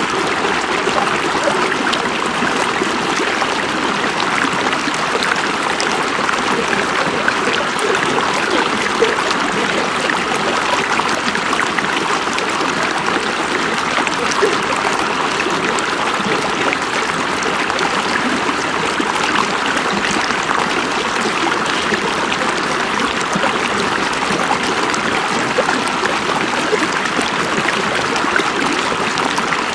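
A river or stream flowing over rocks, making a steady rushing and splashing with small gurgles and splashes scattered through it.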